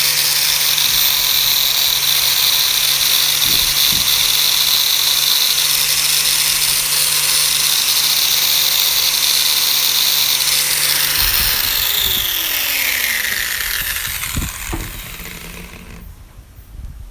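Electric power tool running steadily at speed, then switched off about twelve seconds in, its motor winding down in a falling whine until it stops near the end.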